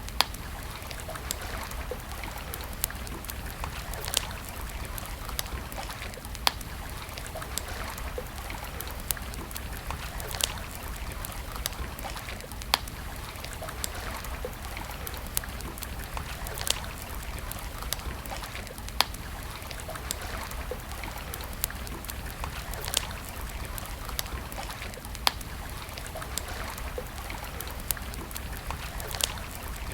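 Wood campfire crackling, with sharp irregular pops every second or so over a steady rushing background.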